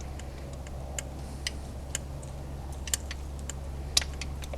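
Light, irregular clicks from a hand oil can being pumped to squirt thick oil, about two or three a second, over a steady low hum.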